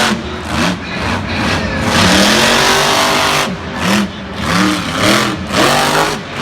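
Monster truck's supercharged V8 revving hard in repeated throttle blips, each rising and falling in pitch, with a longer loud, rough stretch of full throttle a couple of seconds in, then three quick revs near the end.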